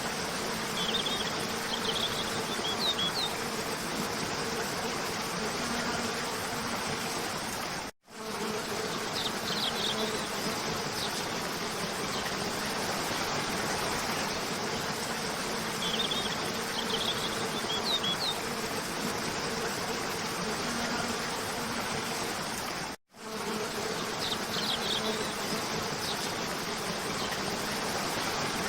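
Steady rushing of a cascading waterfall, with short clusters of high bird chirps recurring every few seconds. The sound cuts out for an instant twice, about a third of the way in and again near the end, where the looped track restarts.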